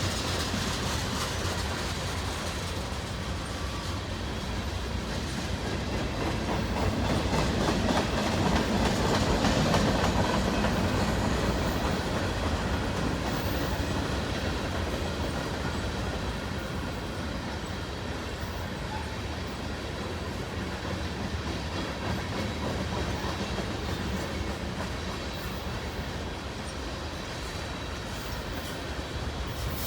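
Cars of a long mixed manifest freight train rolling past, steel wheels clacking over the rail joints in a steady rumble. It grows louder for a few seconds about a quarter of the way in, then eases off.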